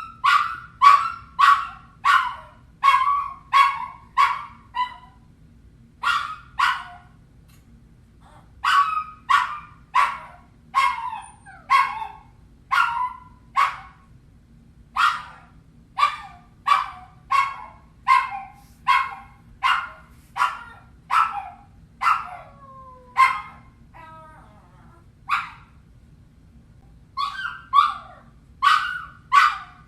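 A dog barking in quick runs of short, sharp, high barks, about two a second, with brief pauses between runs and one drawn-out falling whine partway through.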